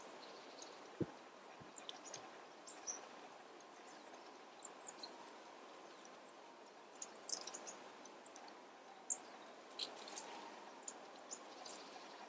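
Small birds giving short, high chirps and call notes, scattered throughout over a faint steady hiss, with a couple of soft low thumps about a second in.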